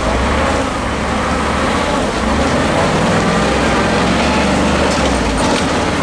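Diesel engine of a 6x6 Ural prototype trial truck running hard under load, its revs picking up about two seconds in and easing off near the end.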